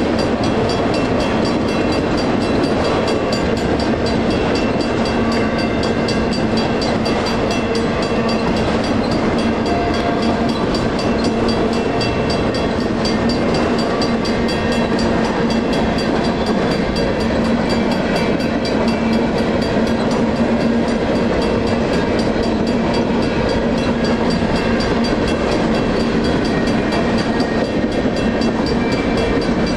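Freight cars rolling steadily past on steel wheels, with a WCH mechanical crossing bell ringing continuously on the active signal. Only one bell is heard because the other signal's bell has failed.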